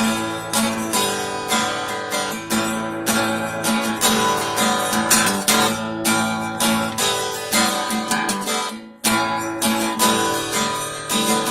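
Acoustic guitar strummed in a steady rhythm as a song intro, with a brief break about nine seconds in before the strumming picks up again.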